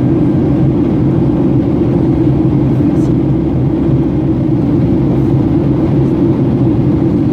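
Airliner climbing after takeoff: a loud, steady, low engine and airflow drone.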